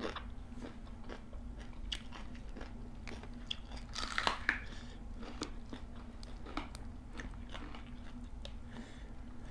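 Close-up chewing and crunching of raw vegetables, with many small crisp bites and a louder crunchy burst about four seconds in, over a faint steady hum.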